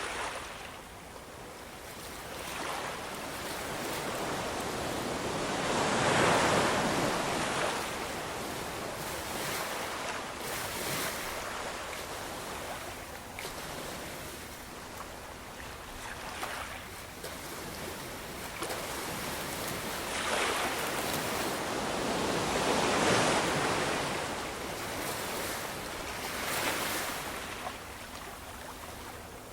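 Ocean waves breaking and washing up the shore, a steady rush that swells into two big breakers about a quarter of the way in and again past the two-thirds mark, with smaller surges between.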